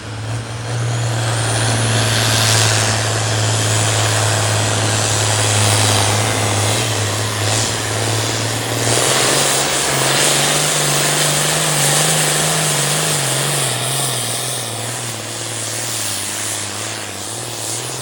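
International farm tractor's engine running at full throttle under load on a pulling track, a loud steady drone. About nine seconds in its pitch rises and wavers up and down, then settles somewhat lower near the end.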